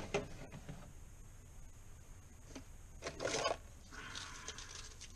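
Sandpaper rubbing on a furnace flame sensor rod: a short scraping rasp about three seconds in and lighter scratching after it, following a small click at the start. The sensor is being cleaned because the technician suspects it is dropping out and causing the no-ignition lockout.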